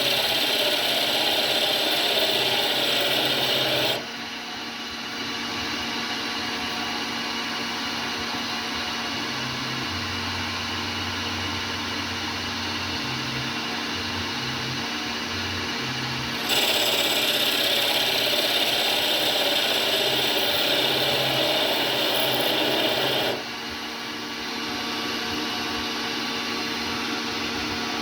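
CNC lathe running, with a steady machine hum and low motor tones that switch on and off. There are two louder hissing, scraping passages: one lasts the first four seconds, the other runs from about 16 to 23 seconds in.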